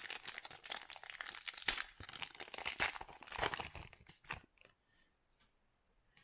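Plastic wrapper of a trading-card pack being torn open and crinkled, stopping about four and a half seconds in.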